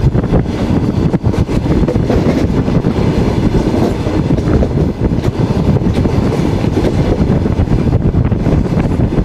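Passenger train carriage running along the track, heard from its window: a loud, steady rumble of wheels on rail with rapid, irregular clattering knocks.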